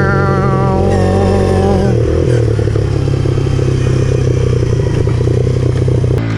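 Pit bike engine running under steady throttle while riding, with a rattle through it; the engine note shifts at about two seconds in and then holds steady.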